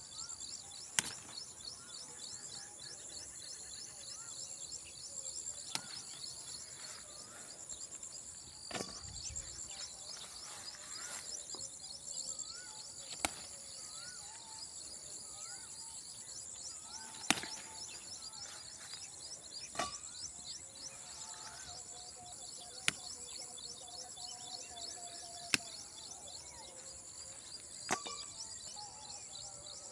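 Outdoor rural ambience: insects trilling steadily in rapid high-pitched pulses, birds chirping now and then, and a sharp click every few seconds.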